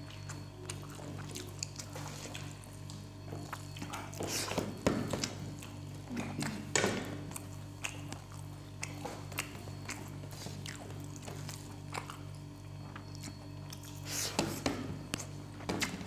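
Close-up eating noises of people eating rice and curry by hand: chewing and small mouth and finger clicks, with a few louder bursts about four, seven and fourteen seconds in, over a steady low hum.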